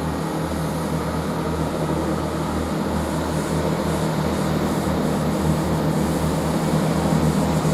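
Class 165 diesel multiple unit's engines running as it pulls away: a steady low diesel drone that grows slightly louder.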